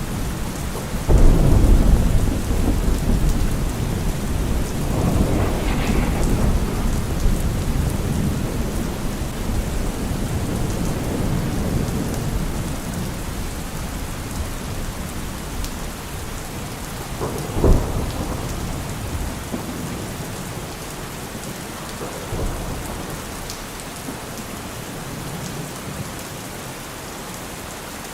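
Steady rain falling, with thunder: a loud low rumble breaks about a second in and rolls on, slowly fading, and a shorter, sharper clap comes about two-thirds of the way through.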